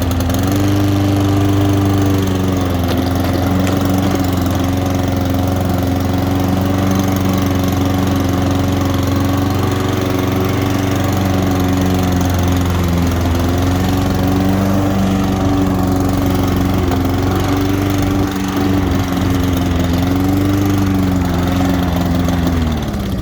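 Honda Izy lawn mower's single-cylinder four-stroke engine running steadily after starting, its speed sagging briefly a few times, then slowing and dying near the end. It cuts out when the mower is moved to the side even with the kill switch disconnected, which the owner thinks points to a fuel problem.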